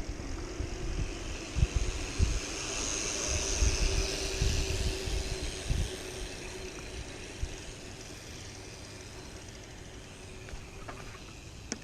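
A passing vehicle whose noise swells to a peak a few seconds in and then slowly fades away, with wind buffeting the microphone in the first half.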